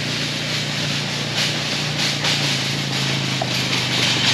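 An engine running steadily at an even speed, with a loud hiss of noise over its low hum.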